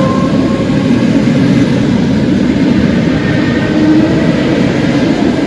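Electric commuter train running past close by: a loud, steady rumble of wheels on the rails with a faint whine from its motors.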